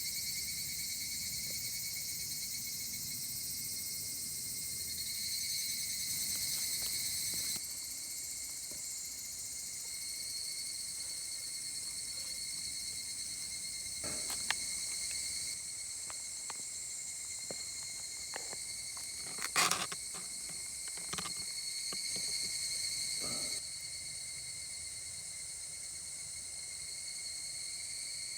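Insects trilling steadily in several high, unbroken tones, with a few short clicks and knocks in the second half, the loudest about two-thirds of the way in.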